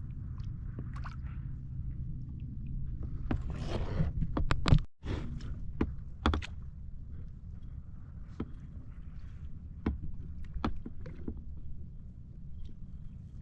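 Sea kayak being paddled on open water: water splashing off the paddle and along the hull, with scattered sharp knocks and a steady low rumble. The loudest splash comes about four seconds in.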